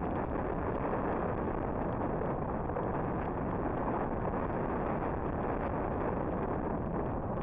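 Steady wind noise rushing over the camera's microphone.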